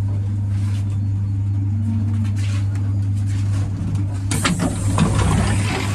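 Steady low electrical hum inside an electric commuter train (электричка) at a station platform. About four seconds in, a sudden rush of hiss with knocks and clatter takes over.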